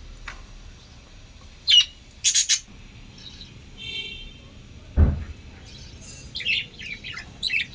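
Lovebirds giving short, sharp chirps and harsh squawks in bursts, with a quick falling call and a harsh call early and a run of chirps near the end. A single dull knock about five seconds in.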